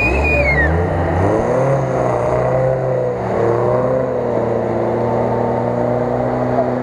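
UAZ-469 off-roader's engine revving hard and held at high revs as it pulls through deep mud. A brief falling squeal comes right at the start.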